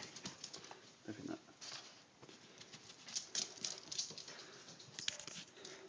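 A Yorkie terrier and a parrot at play: scattered light scratches and taps, with a short low sound from the animals about a second in.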